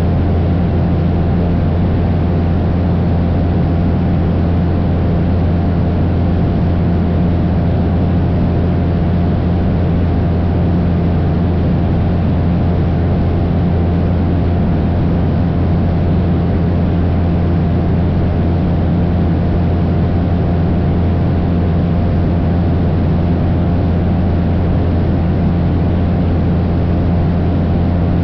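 Cessna 172's piston engine and propeller droning steadily in level flight, with an unchanging low hum and no change in power.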